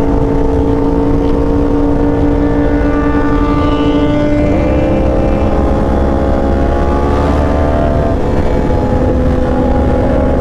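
Sport motorcycle engine running steadily under way, its note stepping to a new pitch about four and a half seconds in and changing again near eight seconds, over a low rush of wind and road noise.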